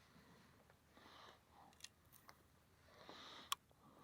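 Near silence with faint rustling and a few small clicks; one sharper click comes about three and a half seconds in.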